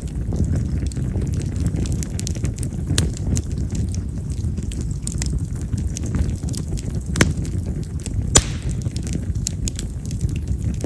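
Campfire of split wild cherry (yamazakura) firewood burning, crackling with many scattered sharp pops over a steady low rush of flame, two louder pops about seven and eight seconds in. Wild cherry is a wood that pops loudly as it burns.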